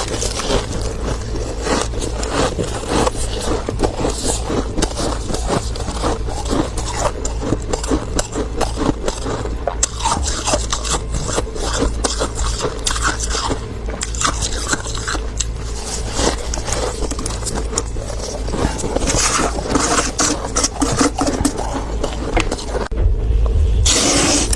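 Freezer frost being scraped and crunched close to the microphone: a dense, steady run of gritty scraping and crackling.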